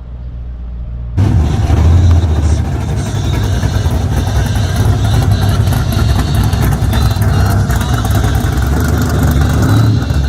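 A car engine running loud with a deep, steady exhaust rumble, which jumps up in level about a second in.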